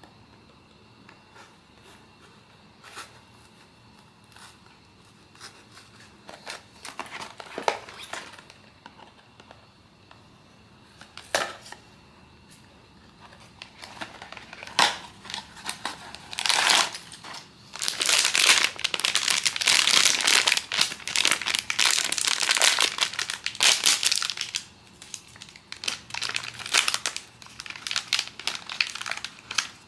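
Plastic packaging crinkling and rustling as a blind box is unpacked by hand. It starts with a few light ticks and brief crinkles, then becomes a long stretch of dense crinkling through the middle, trailing off into scattered crinkles near the end.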